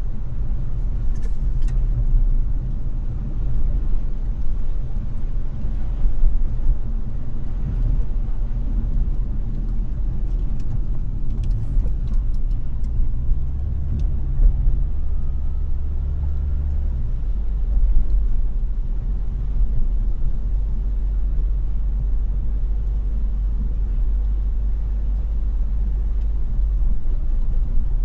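Car driving at road speed: a steady low road and engine rumble with a few faint ticks. The deepest part of the rumble swells for a few seconds past the middle, then drops off suddenly.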